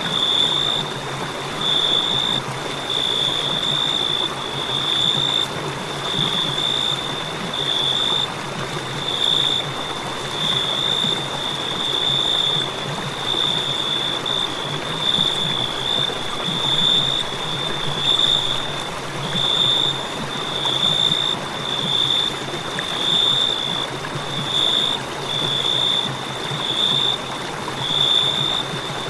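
A cricket chirping steadily: a high, continuous trill broken by brief gaps about once a second, over a steady hiss.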